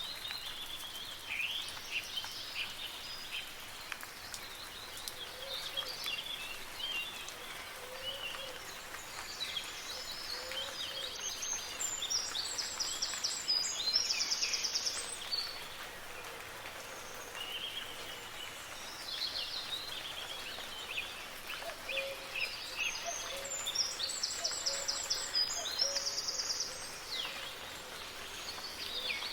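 Songbirds chirping and singing over a steady hiss of soft rain. A louder, fast trilling song phrase comes twice, about a third of the way in and again roughly ten seconds later.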